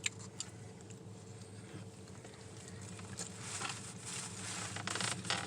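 Quiet eating noises: scattered soft clicks and rustles of someone eating, over a steady low hum.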